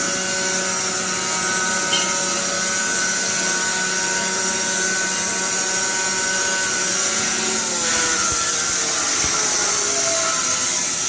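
Semi-automatic band sawmill running with a steady mechanical whine and hiss. About eight seconds in its pitch begins to fall gradually.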